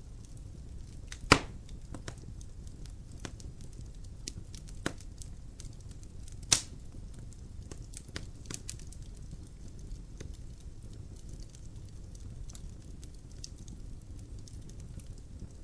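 Wood fire crackling in a fireplace: a steady low rumble of the flames with scattered small clicks, and two loud sharp pops, one about a second in and one about six and a half seconds in.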